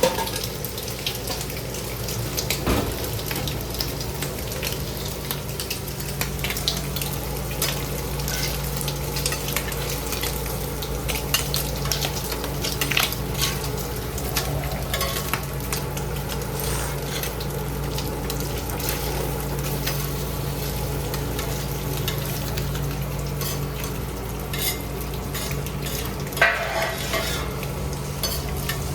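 Food sizzling on a hot griddle, a steady frying hiss with frequent clicks and scrapes of metal utensils, a louder clatter near the end, over a steady low hum.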